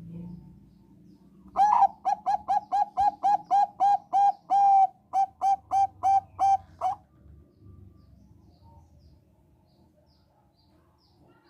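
Zebra dove of the Thai 'Bangkok' strain singing. Its song is a quick run of about twenty short, clear cooing notes, about five a second, lasting some five seconds, with a brief break partway through.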